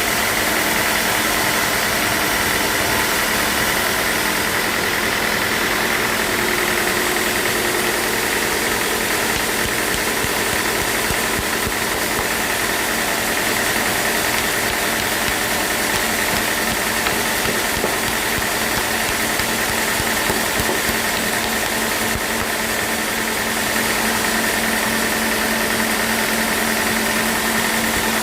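Sawmill machinery running steadily: a continuous mechanical noise with a steady high-pitched whine over a low hum.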